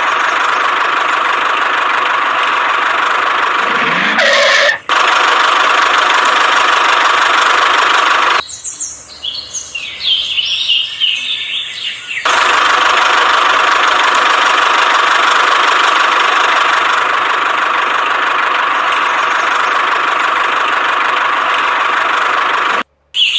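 Steady whirring of a small motor running, cut off briefly about five seconds in; from about 8 to 12 seconds it gives way to a different sound with high chirps, and then the whirring resumes.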